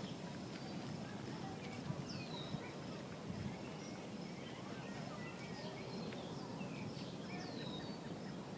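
Birds chirping outdoors, with one downward-sweeping call repeating every few seconds, over a steady low background noise.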